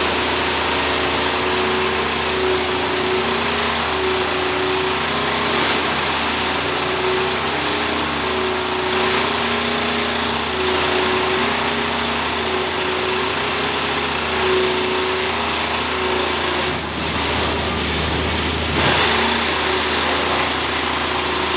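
An engine running steadily, with a hum that wavers between two pitches every second or so over a constant noisy background.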